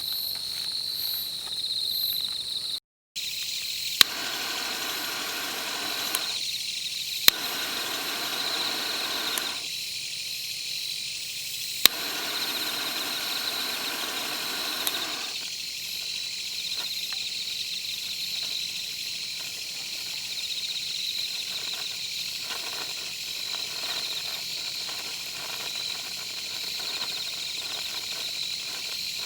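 Steady high-pitched chorus of crickets and other insects, with a few sharp clicks and a patch of hiss in the first half.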